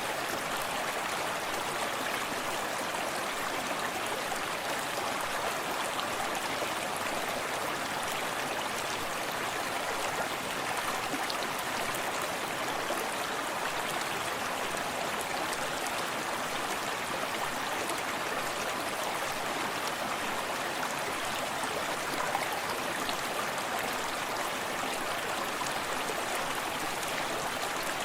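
Small forest stream flowing steadily over rocks, a continuous rush of water with fine splashing and gurgling.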